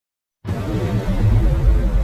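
Music playing over a heavy low rumble of a moving car heard from inside the cabin, starting abruptly about half a second in.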